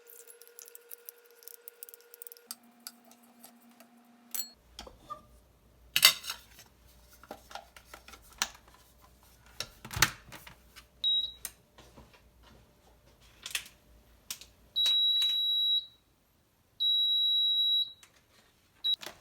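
Scattered clicks and knocks of things being handled. Near the end come high electronic beeps from a device: one short beep, then two long steady ones of about a second each.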